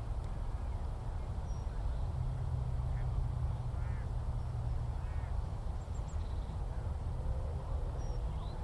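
Two harsh, throaty bird calls about a second apart over a steady low outdoor rumble, with a few faint high chirps from small birds.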